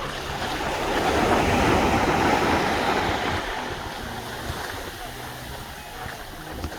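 Surf on a beach: a wave swells up to a loud wash about a second in and sinks back to a lower steady wash.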